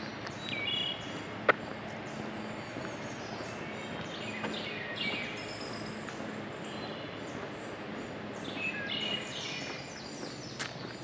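Outdoor background with birds chirping in short bursts a few times, and one sharp click about a second and a half in.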